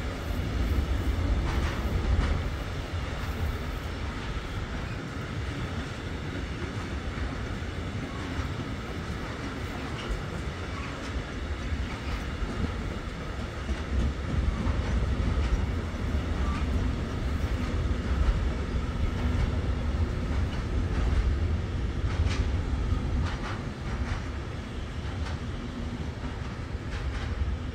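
Container freight train's wagons rolling past: a steady low rumble of wheels on rails with scattered clicks and knocks from the wheels.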